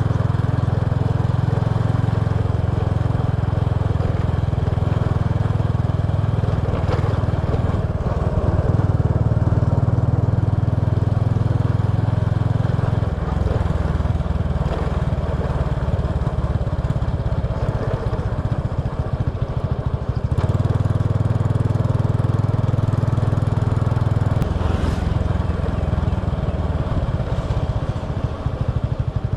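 Small motorbike's engine running while riding, its note changing a few times with the throttle.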